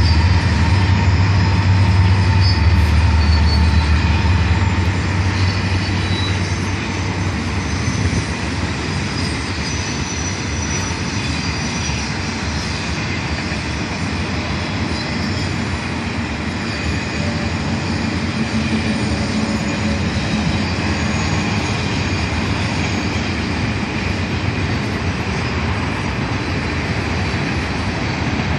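Diesel freight locomotives pass with a deep engine rumble that fades after the first few seconds, then freight cars roll by: steady wheel and rail noise with faint high wheel squeals.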